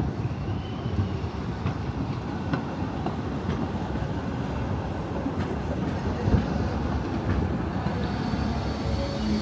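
Rail vehicle running with a steady low rumble and a few faint clicks of wheels on track.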